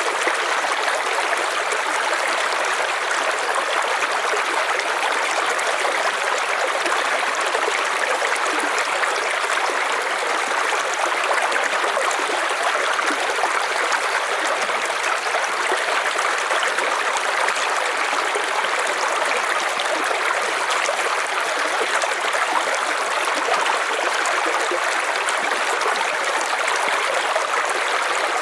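River water rushing and splashing over rocks, a steady even rush without breaks.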